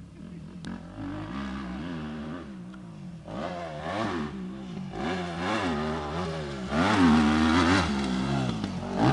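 Motocross bike engine revving up and down in repeated throttle swings, getting louder about three seconds in and again near seven seconds.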